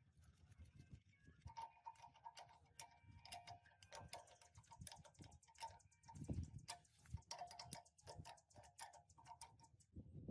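Faint, irregular light clicks and taps, some with a short metallic ring, coming thick and fast for most of the stretch.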